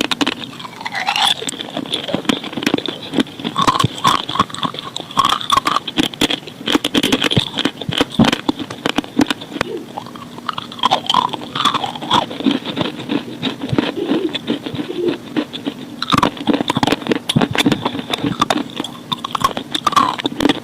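Close-up crunching and chewing of chalk and slate pencil: dense, irregular crackly bites and grinding chews throughout.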